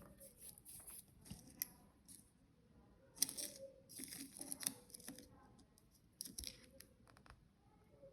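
Packaging being torn and crinkled by hand, in several short irregular bursts of rustling.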